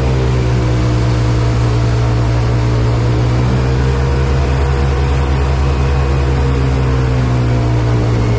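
Airboat engine and propeller running steadily, a loud low drone whose pitch dips and rises slightly.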